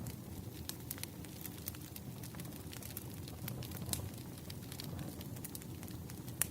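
Wood fire crackling: irregular sharp snaps and pops over a low, steady rushing bed.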